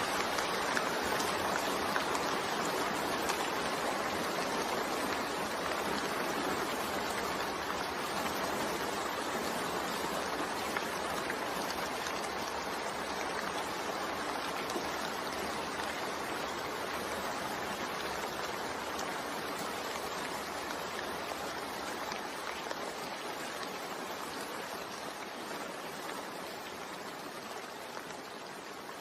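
Steady rain, an even hiss of countless drops with no thunder, slowly growing quieter toward the end.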